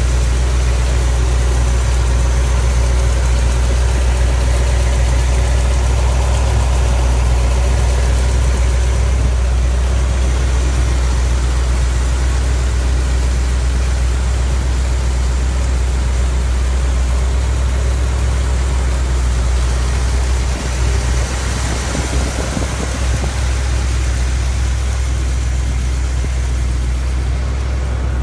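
1972 Chevrolet Corvette's V8 engine idling with a steady low rumble, which dips briefly about two-thirds of the way through.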